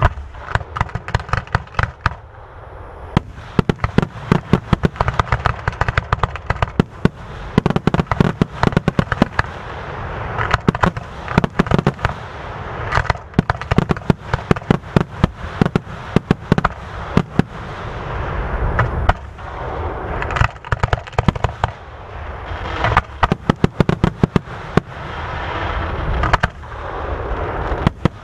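Aerial fireworks display: a rapid, dense barrage of bangs mixed with continuous crackling.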